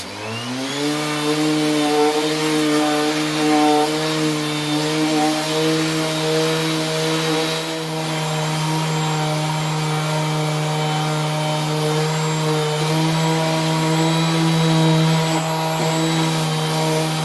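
Parkside PAEXS 20 LI B2 cordless orbital sander switched on and sanding wood. Its motor rises in pitch over about a second, then runs with a steady hum.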